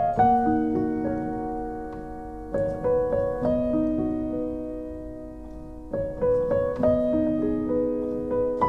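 Slow, gentle piano music: a short broken chord of a few notes struck roughly every three seconds and left to ring and fade.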